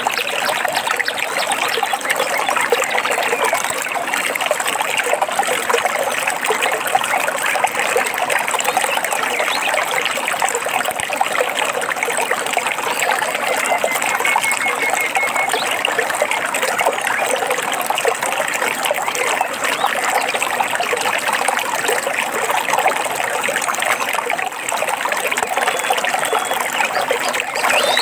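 Forest stream trickling and babbling over stones, a steady dense bubbling of water.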